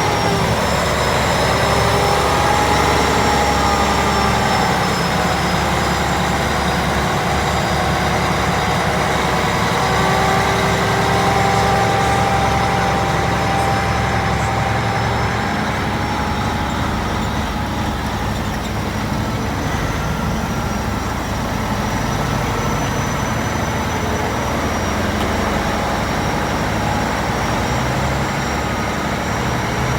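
Heavy truck engine running steadily, with a faint high whine over it.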